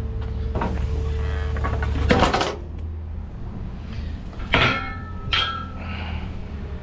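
Four metal clanks and knocks over a steady low engine hum. The loudest comes about two seconds in, and the two near the middle leave a short metallic ring.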